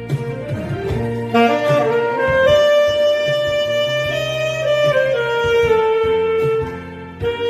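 Saxophone playing a slow melody of long held notes that step up and down, over an accompaniment with a bass line.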